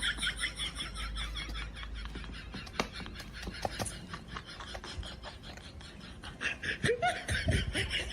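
High-pitched laughter in quick pulses at the start and again near the end, with scattered light knocks and clicks between.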